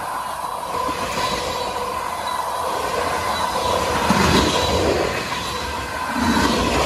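Freight train boxcars and covered hopper cars rolling past close by, steel wheels rumbling and clacking on the rails. A steady high tone sounds over the rolling noise, and the wheel noise surges louder about four seconds in and again near the end.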